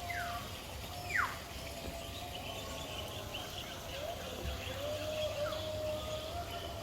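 Several birds calling at once: constant high chirping, two loud downward-sliding whistles about a second apart near the start and a shorter one later, and a lower, steadier whistle held through the middle.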